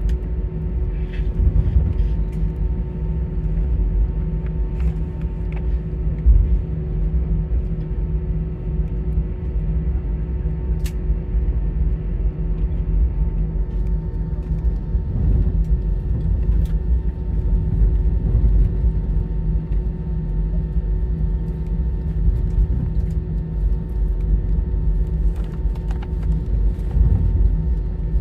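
Airbus A320 cabin noise on the ground before takeoff: a steady low rumble from the aircraft with constant engine and air-system hum tones, and a few faint clicks.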